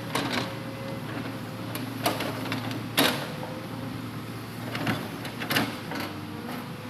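Hitachi Zaxis 200-5G excavator's diesel engine running steadily under hydraulic load while loading logs. Several sharp knocks stand over it, the loudest about three seconds in.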